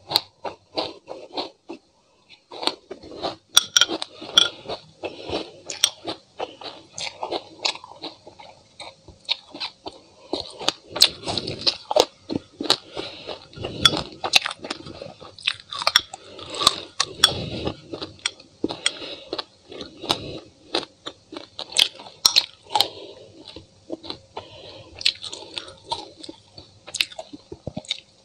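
Close-up chewing of a mouthful of dry sesame seeds: a dense, irregular run of small crisp crunches and crackles.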